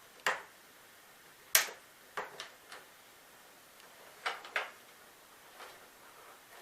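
Sharp plastic clicks and taps, about nine in all, coming in small clusters with the loudest about one and a half seconds in: the plastic piece on a Hoover WindTunnel MAX's brush roll being handled and fitted back onto the roller's pole, where it had been rubbing the bristles and making the vacuum loud.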